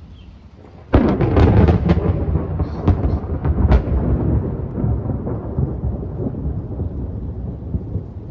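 A close thunderclap: a sudden sharp crack about a second in, crackling for a few seconds, then a deep rumble rolling on and slowly fading. It follows a nearby lightning strike.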